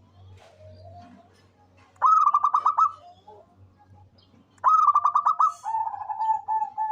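Zebra dove (perkutut) singing: two phrases of rapid staccato cooing notes, the second running on into a longer, lower coo near the end.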